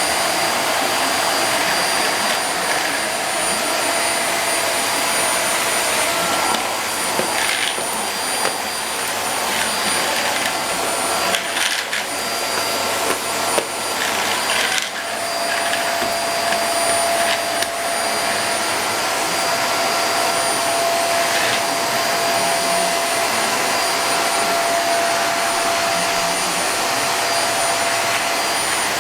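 Household vacuum cleaner running steadily, with a few brief knocks and changes in its sound near the middle as the nozzle is moved about.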